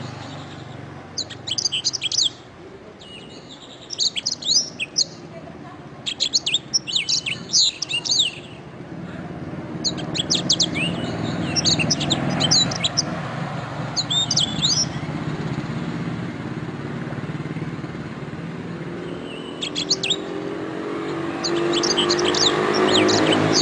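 Domestic canary singing: bursts of rapid, high chirps and trills in phrases a second or two long, with short pauses between them. A low background rumble, like passing traffic, grows louder near the end.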